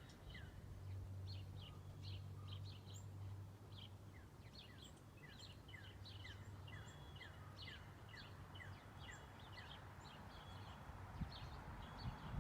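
Several backyard songbirds chirping and twittering, with many short falling notes over higher calls. A faint low hum sits underneath during the first part.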